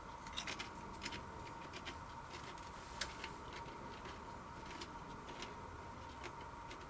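Ridged potato crisps crunched while chewing: irregular crackles and snaps, most frequent in the first half and loudest about three seconds in. A faint steady hum runs underneath.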